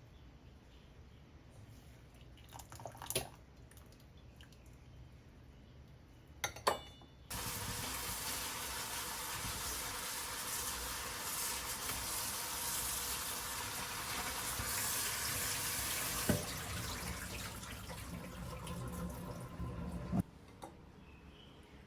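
Kitchen tap running into a sink for about thirteen seconds, starting and stopping abruptly. Before it come a couple of light knocks.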